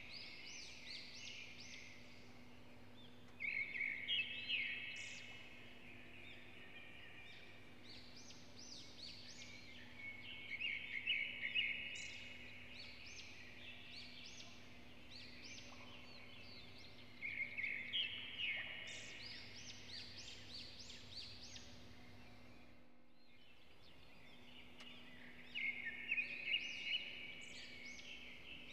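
A bird singing a rapid, high twittering phrase about every six to eight seconds, over a steady low hum.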